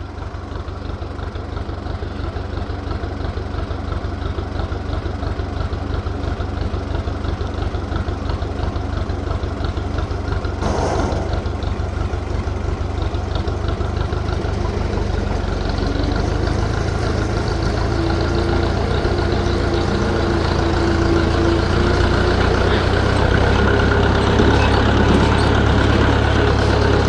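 An engine running steadily with a fast low pulse, growing gradually louder, with a steady tone joining it in the second half.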